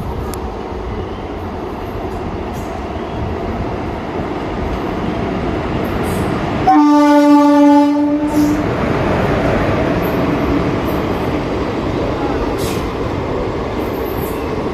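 An Indian Railways train running with a steady rumble, and its horn sounding one blast of just over a second about halfway through.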